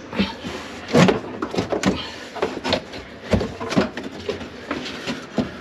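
Irregular knocks, taps and clatter from hands-on work inside a wooden kitchen cabinet, with one sharper knock about a second in and another a little past the middle.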